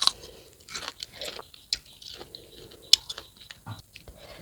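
Close-up chewing of crisp unripe fruit: irregular wet crunches and a few sharp cracks, the sharpest at the start and about three seconds in.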